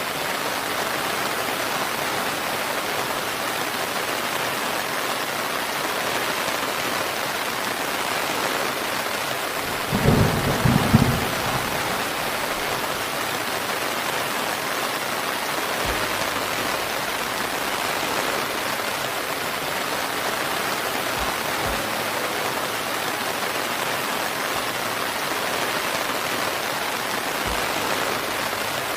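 Steady, even rain falling, with a short low rumble of thunder about a third of the way through and a few faint low thumps later on.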